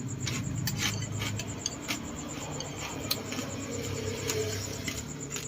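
Close-up eating sounds: a balut being chewed, with many small sharp clicks and crunches, and a few light clinks.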